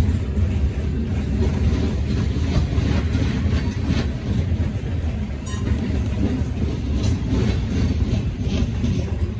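Freight train rolling past: a steady low rumble of wheels on rail, with faint irregular clicks from the rail joints.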